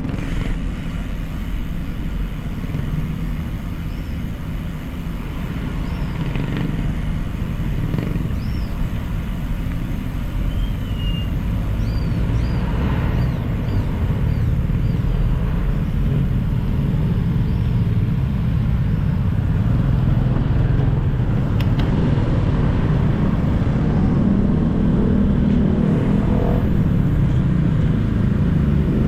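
City street traffic: motorcycles and cars running past in a steady low rumble that grows gradually louder toward the end, with a few short high squeaks in the first half.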